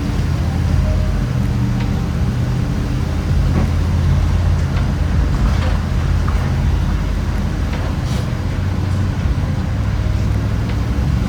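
Steady engine and road noise heard from inside the cabin of a moving delivery vehicle, a constant low hum with tyre rumble.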